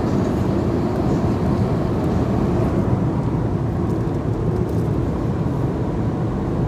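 Steady low rumble of an airliner's cabin in flight: engine and airflow drone.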